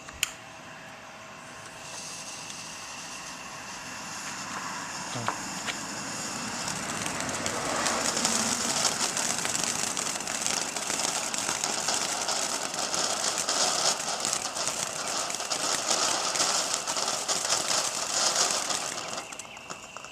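Cheap consumer fountain firework spraying sparks: a steady hiss thick with fine crackling that builds over the first several seconds, holds for about ten seconds, and dies away near the end. A single sharp click comes just before it starts.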